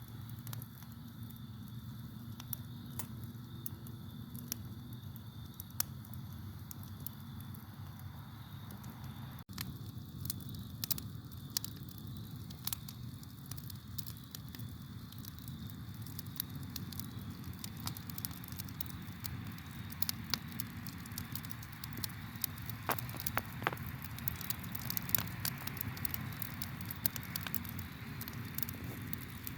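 Campfire crackling: irregular sharp pops and snaps of burning wood over a low steady rumble, with crickets chirping faintly in a steady high trill behind.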